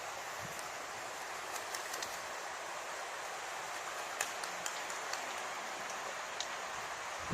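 Steady outdoor background hiss, with a few faint light ticks about one and a half, four and six seconds in.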